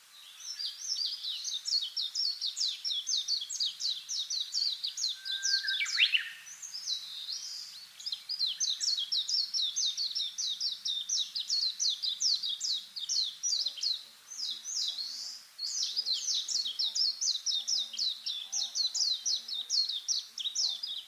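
Rapid, unbroken series of short high chirps, about four a second, from a small animal. About six seconds in, a louder call sweeps sharply downward.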